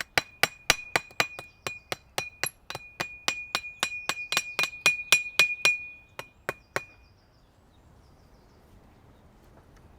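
Rapid hammer blows, about three or four a second, each with a ringing tone; the hammering stops about seven seconds in.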